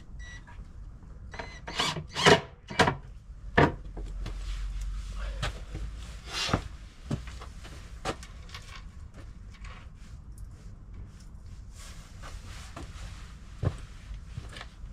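Wood and tools being handled: a cluster of sharp knocks in the first few seconds, a few more later, and steady rubbing or scraping between them.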